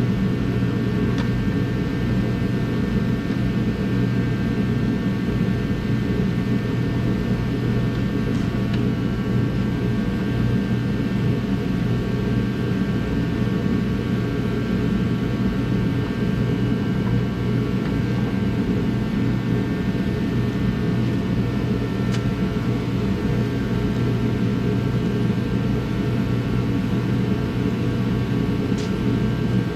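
Steady machine drone with a strong low hum and faint steady tones above it, unchanging throughout.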